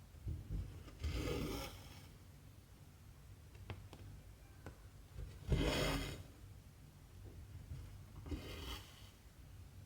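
Cotton embroidery thread drawn through 14-count cross-stitch fabric: three short rasping pulls, about a second in, just past the middle and near the end, with a couple of faint ticks of the needle between.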